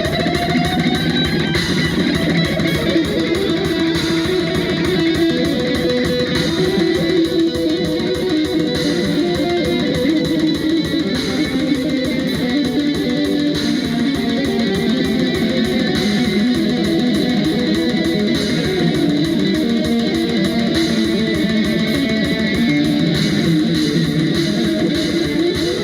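Rock band playing live: electric guitar over bass guitar and a steady drum beat.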